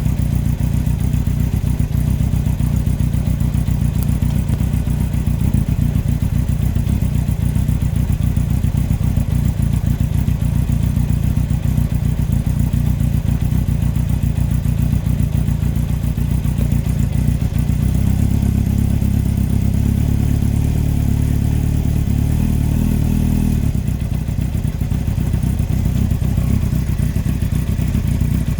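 2003 Yamaha R1 inline-four engine running with a knock from the bottom end: the number 4 cylinder big end bearing has failed. The engine note shifts for a few seconds from about eighteen seconds in, then settles back.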